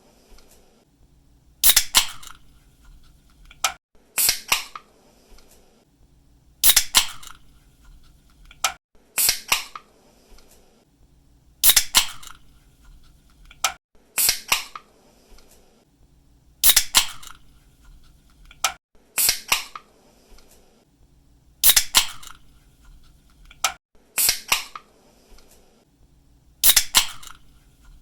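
Aluminium drink can being opened again and again, about every two and a half seconds. Each time the pull tab snaps with a sharp click and the gas releases in a short hiss.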